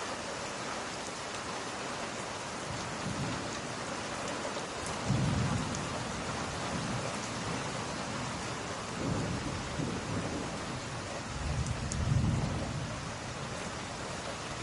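Steady rain with low rolls of thunder swelling about five, nine and twelve seconds in, the last one the loudest.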